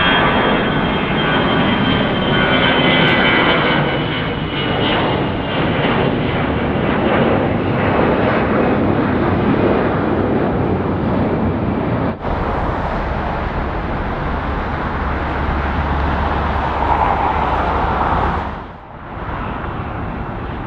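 Jet engines of a taxiing Boeing 747-8 freighter, a steady loud rush with a thin high whine. Near the end the sound drops out for a moment and gives way to another jet's engine noise.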